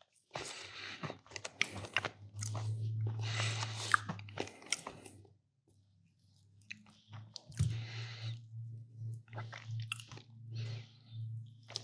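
Close-up crunching and chewing of food, with a pause of about a second and a half midway before the chewing starts again.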